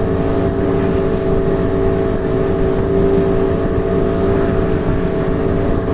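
Motorboat engine running at a steady speed, an even drone that holds one pitch throughout, over a low rumble.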